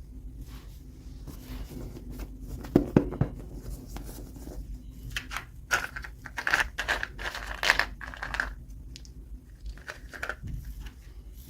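Toy packaging being torn open and crinkled by hand, with a few sharp clicks about three seconds in and a run of loud tearing rasps in the middle.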